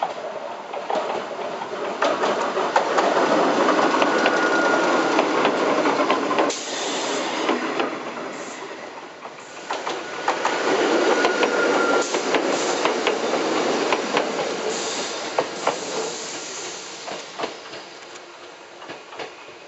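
Hakone Tozan Railway Moha 1 electric railcar running along the track: a steady rumble of wheels on rail with many sharp clicks over rail joints, rising and falling twice. A brief thin squeal sounds in each pass.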